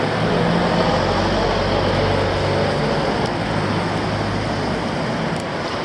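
Road traffic: a motor vehicle's engine hum, fading after about three seconds, over a steady rushing noise.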